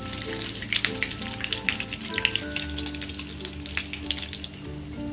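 Egg-battered eggplant slices frying in hot oil in a pan: a steady sizzle with frequent sharp crackles and pops.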